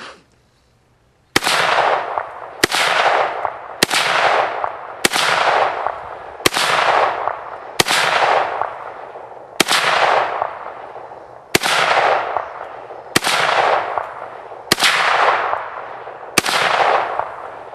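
AK-47-pattern rifle (Romanian WASR-10/63, 7.62×39 mm) fired single shots in semi-automatic: about eleven shots spaced one to two seconds apart, starting about a second and a half in, each followed by a long rolling echo.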